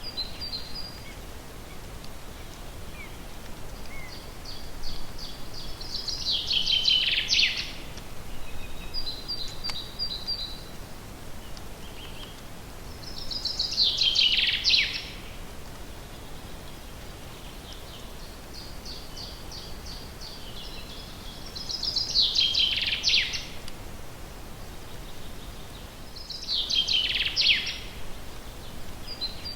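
A forest songbird singing the same song phrase again and again, about every seven or eight seconds. Each phrase is a run of repeated high notes that ends in a louder, falling flourish. Short high call notes come between the songs.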